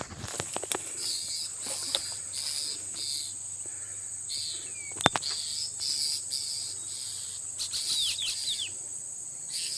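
Forest insects: a steady high-pitched drone under a pulsing chirp that repeats about twice a second. A few short bird chirps come near the end, and sharp clicks and a knock are loudest about five seconds in.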